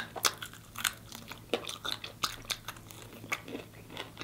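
Close-up chewing and crunching of a crispy-coated chicken wing: a quick, irregular string of short, crisp crunches with wet chewing between them.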